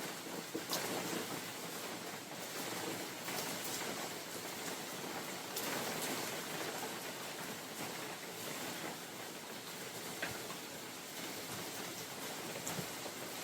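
Steady rain falling in a forest, with scattered individual drops tapping and wind gusts swelling and easing in the background.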